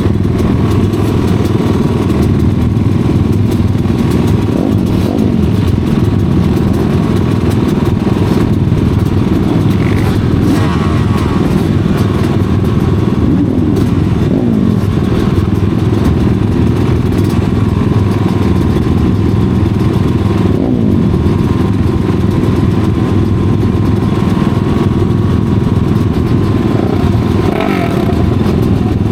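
Several studded-tire racing motorcycles running hard in a race, their engines rising and falling in pitch as they power around the track.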